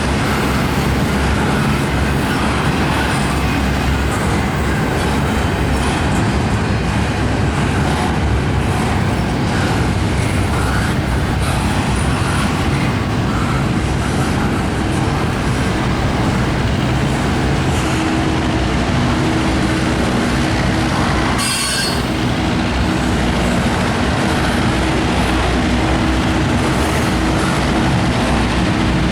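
A train's cars rolling past: a steady rumble and clatter of wheels on rail. Steady wheel-squeal tones join in about two-thirds of the way through.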